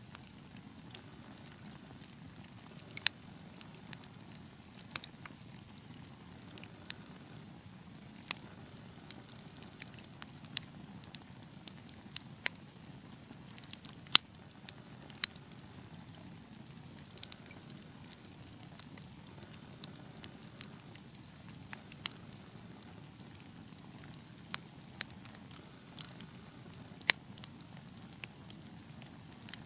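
Wood fire crackling in a fireplace: irregular sharp pops and snaps, a few of them loud, over a low steady rush of burning.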